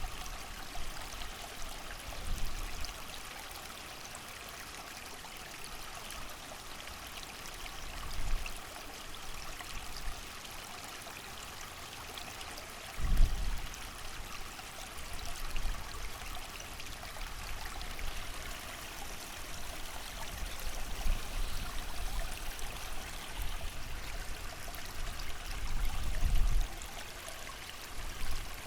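A creek flowing steadily, its water rushing and trickling under falling rain. Low gusts of wind rumble in briefly a few times, the strongest about halfway through.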